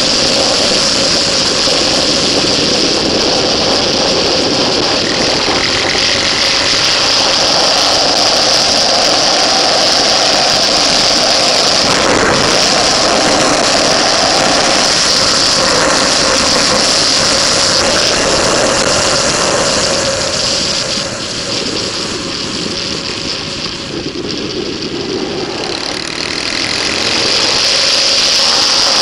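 Motorcycle engine running hard at track speed, heard from a camera mounted on the bike, with steady wind rush over it. The sound eases for a few seconds past the middle, then comes back up near the end.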